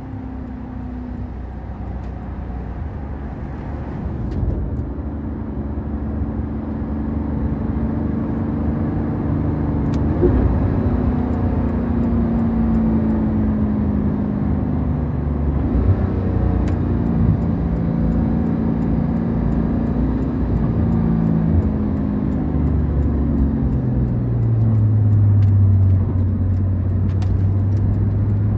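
Porsche 911 GT3 RS (991.2) naturally aspirated 4.0-litre flat-six heard from inside the cabin while driving. Its note rises and falls in pitch several times and gets louder a few seconds in, over steady road noise. Near the end it settles into a deep low drone.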